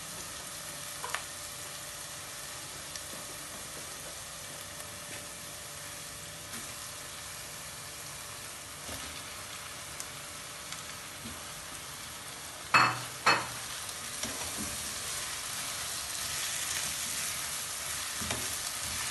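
Chopped onions and raw chicken pieces sizzling in hot oil in a nonstick pan. A little before 13 s, two loud sharp knocks sound in quick succession; after them the sizzling grows louder as the chicken is stirred into the onions.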